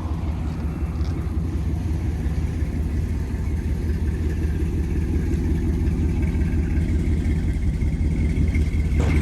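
Dodge Ram pickup truck running with a steady low engine rumble that grows slightly louder.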